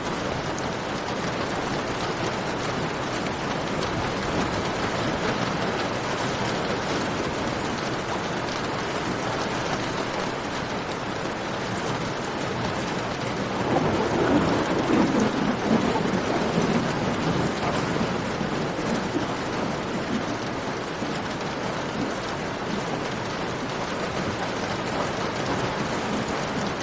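Steady rain falling, with a rumble of thunder that swells about halfway through and rolls on for a few seconds before fading back into the rain.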